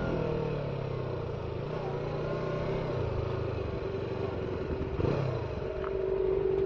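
Motorcycle engine running on the road, its pitch falling at the start as it slows, then holding steady, with a short knock about five seconds in.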